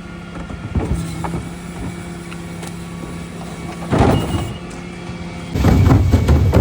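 Dennis Elite refuse truck running with a steady low hum. About four seconds in there is a loud rush, and near the end heavy clattering, typical of a bin being tipped and recycling crashing into the hopper.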